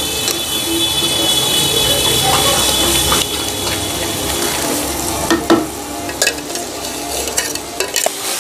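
Ground chicken skin and onions frying in a black kadai, sizzling steadily while a flat spatula stirs and scrapes through them. A few sharp knocks of the spatula against the pan come in the second half.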